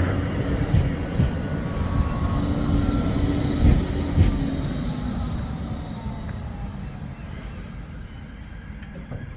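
Flexity 2 tram running along the track and moving away, with a few clunks from the wheels over rail joints and a faint falling whine; the sound slowly fades.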